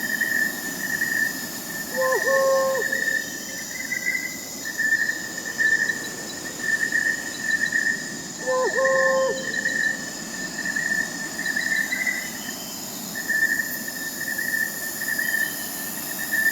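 Crickets chirping in a steady pulsing trill, with an owl hooting twice, about six seconds apart, over a soft hiss of night air.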